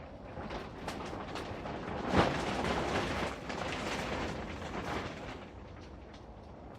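Scraping, rustling and clicking as a potted bird's nest spruce is worked by hand and with tools, with a sharp knock about two seconds in.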